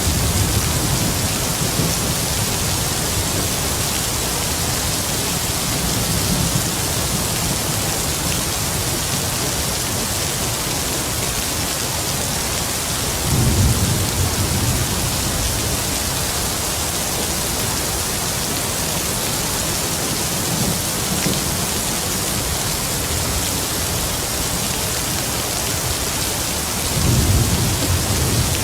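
Heavy rain falling in a steady hiss, with distant thunder rumbling low several times; the deepest rumbles come about halfway through and near the end.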